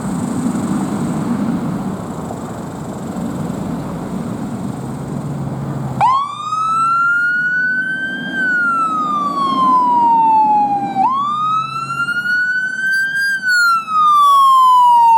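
Fire engine running with a low engine rumble, then about six seconds in its siren starts wailing: a quick jump up in pitch, a slower climb and a long fall, repeating about every five seconds and loud by the end.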